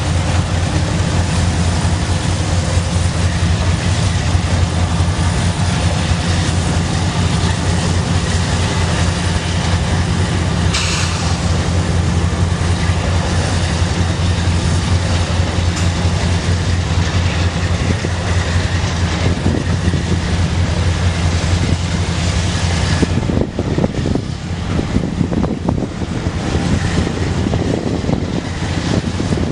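A freight train rolling past with a loud, steady rumble of wheels and cars. About 23 seconds in, the sound thins and turns uneven.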